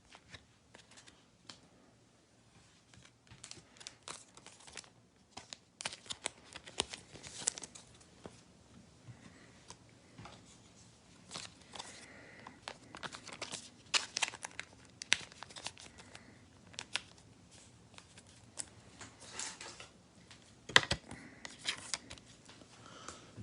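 Plastic or foil card packaging crinkling and rustling in short, irregular bursts of crackles and clicks as trading cards are handled.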